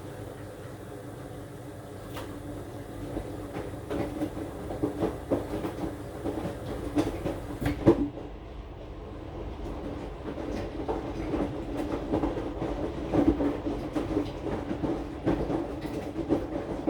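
AQUA AQW-DX12M front-loading drum washing machine tumbling a load of about 7 kg of clothes: irregular knocks and clatter from the turning drum over a steady motor hum, heard through the machine's own top panel. There is one sharp knock about eight seconds in, then a quieter spell before the tumbling picks up again.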